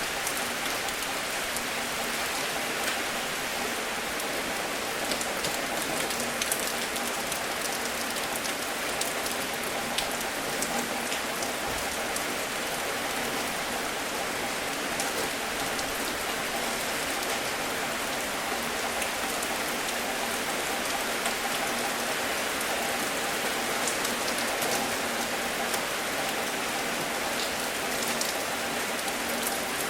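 Steady rain falling on a surface, with scattered individual drop ticks over an even hiss.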